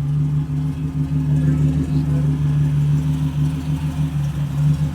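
A hot rod's engine idling steadily with an even low pulse.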